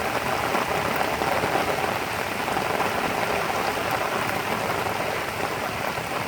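Steady rain falling and pattering on standing floodwater.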